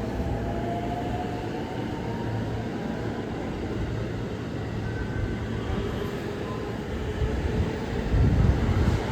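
Electric train running on the line, a steady low rumble with a faint rising motor whine at the start, growing louder in the last couple of seconds.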